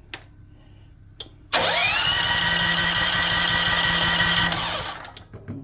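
A small electric motor spins up with a rising whine, runs steadily for about three seconds, then stops. Two light clicks come before it.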